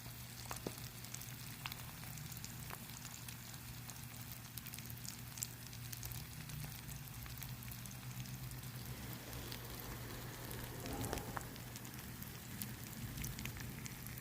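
Faint sizzling and crackling of food frying in garlic butter in a skillet, with scattered small pops, over a low steady hum.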